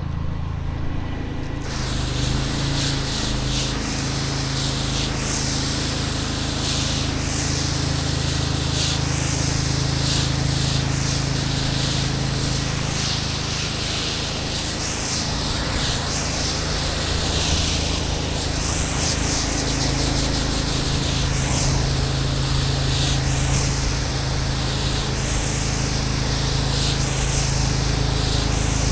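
Pressure washer spraying water in a steady hiss that starts about two seconds in and swells and fades in repeated sweeps, over the continuous low hum of its engine.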